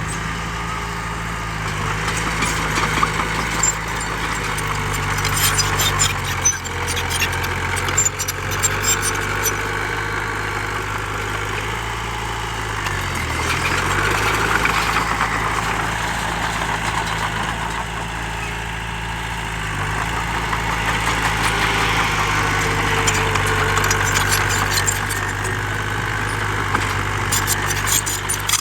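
Heavy diesel engine of earthmoving machinery running steadily, its pitch dipping briefly and recovering twice, about six seconds in and again near halfway. Scattered clatter and rattling over it in the first third and near the end.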